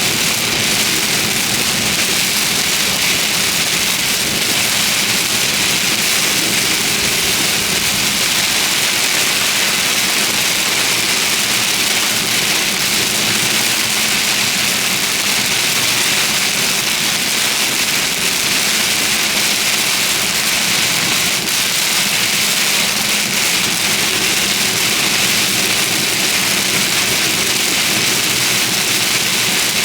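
Heavy rain pelting a moving car in a severe thunderstorm, a steady dense hiss, with the car's engine and road noise running low beneath it.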